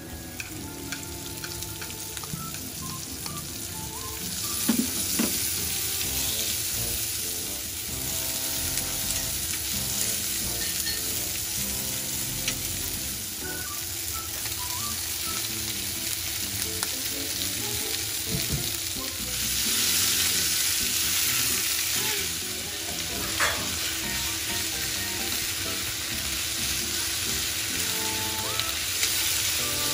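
Garlic and sliced onion sizzling in melted butter in a frying pan, stirred with wooden chopsticks, with a few light clicks against the pan. The sizzle grows louder about two-thirds of the way through, as squid goes into the pan.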